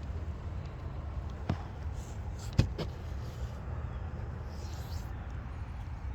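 Audi Q5 2.0T's turbocharged four-cylinder engine idling, a steady low rumble, with three sharp knocks: one about a second and a half in, and two close together just before the middle.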